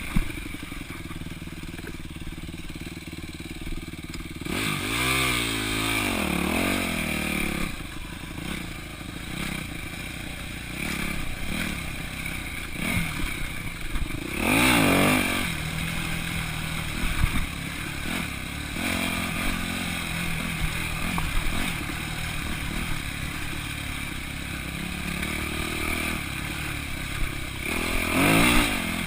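2002 Yamaha YZ250F dirt bike's four-stroke single-cylinder engine, heard from the rider's chest while riding a trail. The revs rise and fall with the throttle, with louder bursts of revving about five seconds in, around the middle and near the end.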